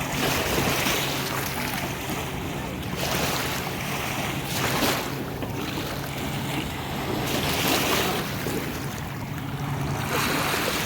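Small waves washing on a beach, swelling and easing every couple of seconds, with wind on the microphone and a steady low hum underneath.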